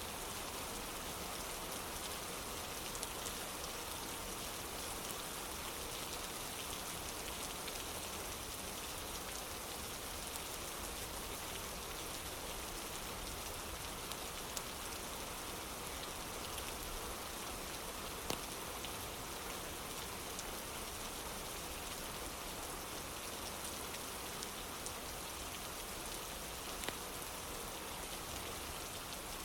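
Steady rain falling on a wooden porch, an even hiss of drops with a few sharp clicks scattered through it.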